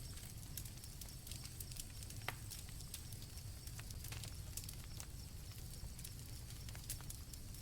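A night campfire crackling with irregular pops, one sharper pop a little over two seconds in, over a low steady rumble, with crickets trilling faintly and steadily high above.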